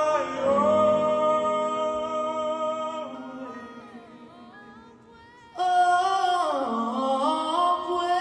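Pop vocals singing long held notes with harmonies. The first phrase fades away over the first few seconds, and a new loud phrase starts about five and a half seconds in.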